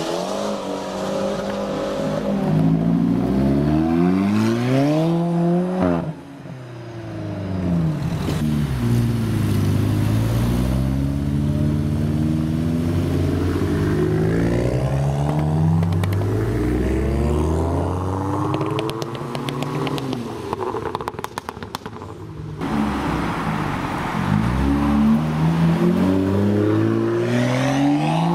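Sports cars accelerating away one after another, their engine notes climbing in pitch as they rev up. There are sudden changes between passes, and a stretch of rapid crackling about three quarters of the way through. Among them are an Alfa Romeo 4C, a Volkswagen Golf GTI and a BMW M2.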